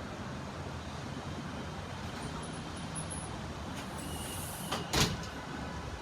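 Steady rumbling hiss with a single sharp knock about five seconds in.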